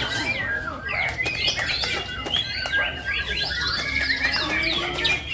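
Songbird singing a busy, varied song of quick chirps and whistles, with a held whistled note in the middle and a rapid trill near the end.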